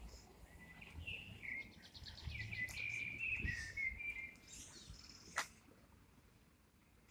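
A songbird singing a quick, warbling run of notes for about three seconds, then a single sharp click about a second later, over a low background rumble.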